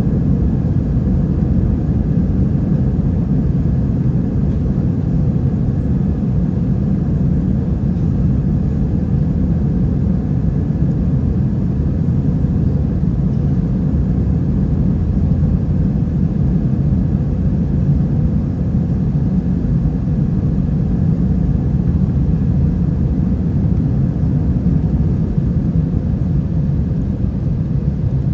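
Steady cabin noise of an Airbus A320 with IAE V2500 engines: a loud, even rumble of engines and airflow heard from a window seat, with no change in pitch or level.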